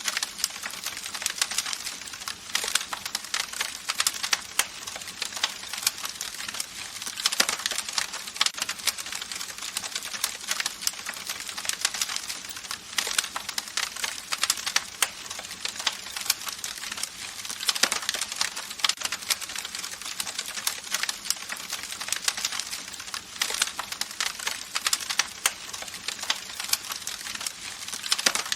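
Campfire crackling: a continuous dense stream of small pops and snaps over a soft hiss, with slightly louder flurries of crackles every few seconds.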